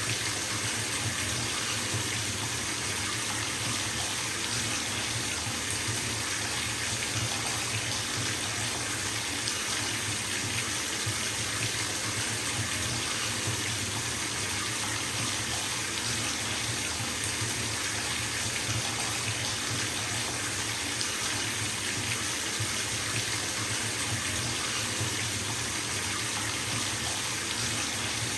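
Water running steadily from a bathtub tap into the filling tub, an even, unbroken splashing rush.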